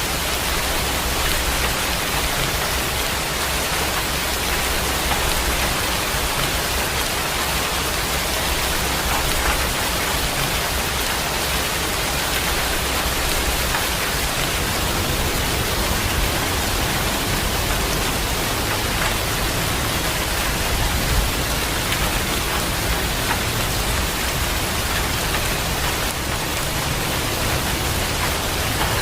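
Steady heavy rain: an even, unbroken hiss.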